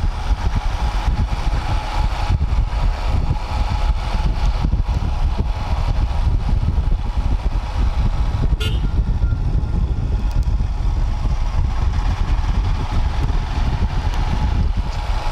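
Royal Enfield Himalayan's 411 cc single-cylinder engine running steadily while riding, a low rumble with a constant rushing noise over it. A brief sharp sound comes a little past halfway.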